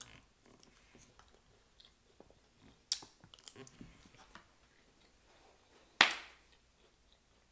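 Close-miked chewing of a mouthful of Caesar salad, with small wet clicks and crunches and a sharper click about three seconds in. A single loud hand clap about six seconds in is the loudest sound.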